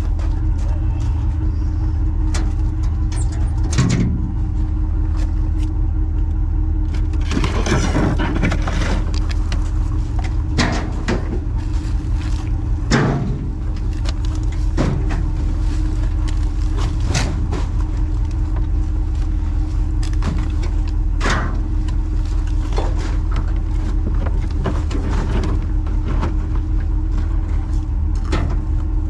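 Garbage truck engine running steadily with a low rumble, with scattered knocks and clatters over it.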